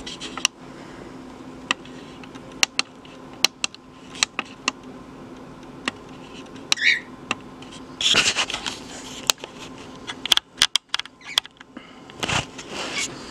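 Pet birds moving about, making scattered sharp clicks and scratches, with a brief chirp about seven seconds in and rustling around eight seconds in.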